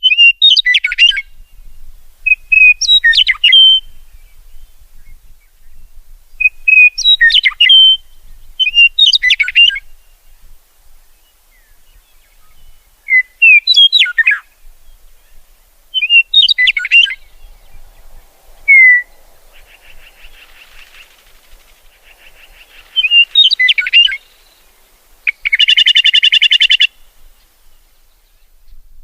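Songbirds singing: short, quick whistled phrases repeated every two to four seconds, and a loud, harsh buzzy trill about 25 seconds in.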